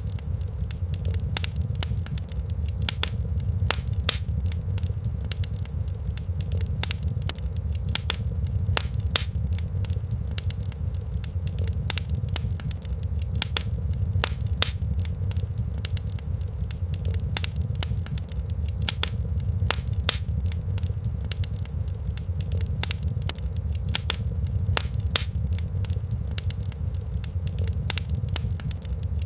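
Wood fire crackling in a fireplace: sharp pops and snaps at irregular intervals, several a second, over a steady low rumble.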